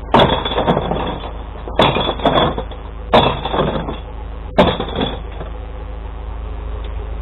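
Glass bottles and jars crashing and breaking as they are tipped into a glass-recycling truck's bin: four loud smashes, each with a short clatter of glass, about a second and a half apart. A truck engine runs steadily underneath and is heard alone near the end.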